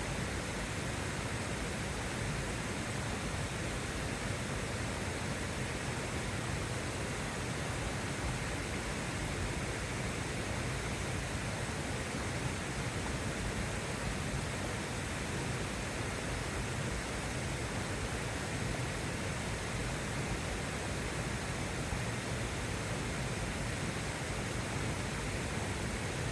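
A steady, even rushing noise with no separate drops, knocks or crackles.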